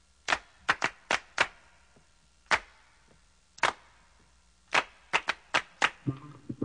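Sharp handclaps alone in an uneven, syncopated pattern, the opening of a funk song's backing track. Bass and band come in about six seconds in.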